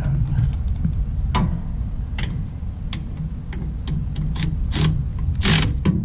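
Scattered clicks and clinks of hand tools at work on a mower, over a steady low rumble, with a short rasping scrape near the end.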